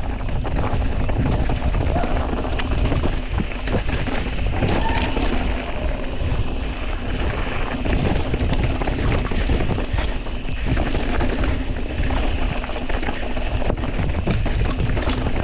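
Wind buffeting an action camera's microphone during a fast mountain bike descent, with the tyres rolling over rough trail and the bike clattering in short knocks throughout.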